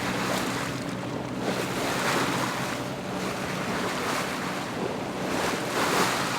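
Sea water rushing and washing along a sailboat's hull under way, swelling in surges every second or two as waves pass, with wind buffeting the microphone and a faint steady low hum underneath.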